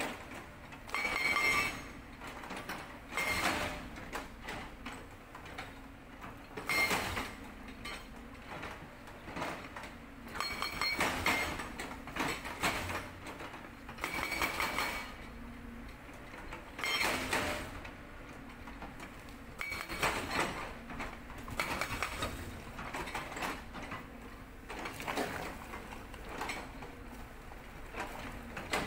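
Cat 320D excavator working a Sangdo SD220 hydraulic rock breaker: the engine runs steadily under short, loud bouts of metallic hammering and clatter about every two to three seconds as the breaker chisel is worked on rock.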